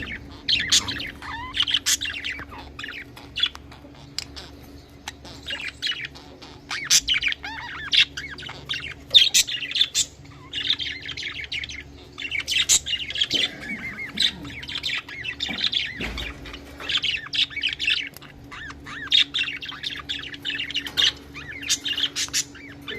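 Budgerigars chattering and chirping: a continuous stream of quick warbles, chirps and short squawks from several birds.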